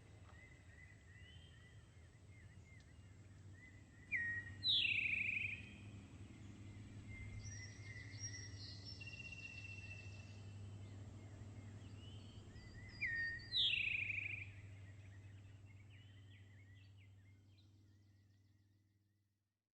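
Forest birdsong: small chirps throughout, and a louder call of a short note followed by a falling one, heard twice about nine seconds apart. A steady low hum lies underneath, and everything fades out near the end.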